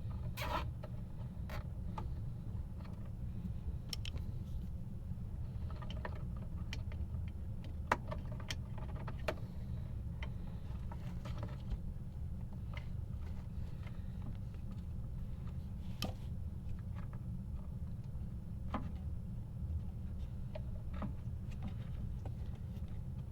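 Scattered light clicks and taps, as of parts and small tools handled during amplifier repair work, over a steady low hum.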